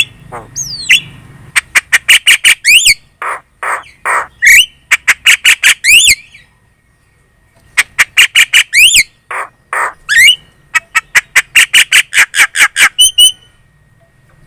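Javan myna chattering loudly: a rapid run of harsh squawks, sharp clicks and short rising whistles, breaking off for a second or so about six seconds in, then a fast, even series of repeated calls near the end.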